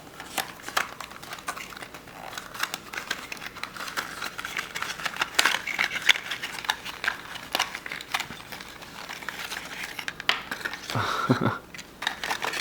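Plastic yo-yo packaging crinkling and clicking as it is handled and pried open, in a run of small irregular crackles.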